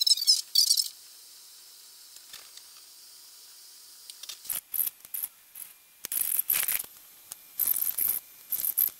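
Air-band radio receiver giving short bursts of hissy static, several in a row with quiet gaps between: noisy or unreadable transmissions on the channel.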